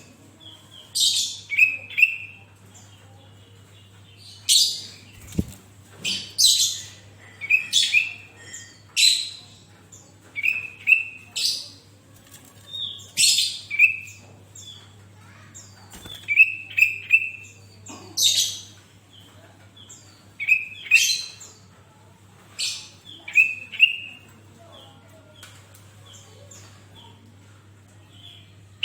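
Sooty-headed bulbul (kutilang) singing: short, lively chirping phrases repeated every second or two, each a quick falling sweep followed by a few short notes.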